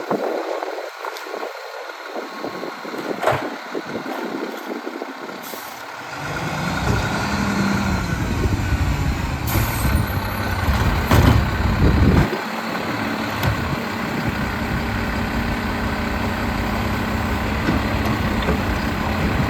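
Mack LEU garbage truck's diesel engine coming up to speed about six seconds in and then running loud and steady, with a short burst of air hiss near the middle.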